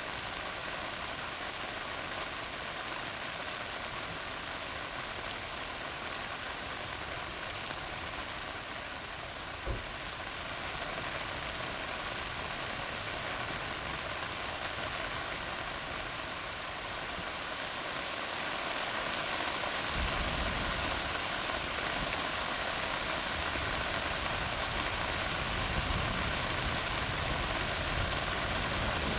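Steady rain falling on a tar road, an even hiss with scattered drop ticks. About two-thirds of the way through, a low rumble rises underneath the rain.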